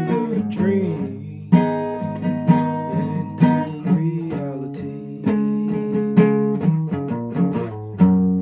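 Guitar playing a slow instrumental passage: plucked and strummed chords with sharp attacks about once a second, ringing on between them.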